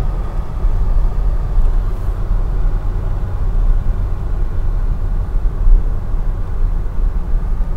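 2011 Scion tC with its 2.5-litre four-cylinder, Injen short ram intake and stock exhaust, driving at a steady pace: a loud, even low rumble of engine and road noise, with no rise or fall in revs.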